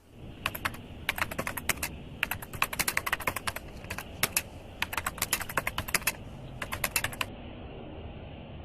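Typing on a computer keyboard: quick runs of key clicks with short pauses between them, stopping about seven seconds in, after which only a low steady hiss remains.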